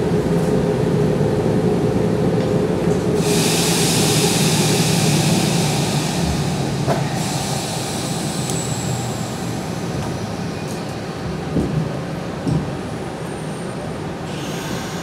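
Nishitetsu 5000 series electric train running slowly into a station, heard from inside the car: a low running hum that gradually fades as the train slows. A loud hiss sets in about three seconds in and stops abruptly some four seconds later, and two soft knocks come near the end.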